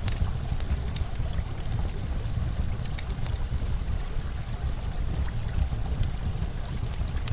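Campfire crackling, with small sharp pops scattered irregularly, over a steady rush of running water with a deep low rumble.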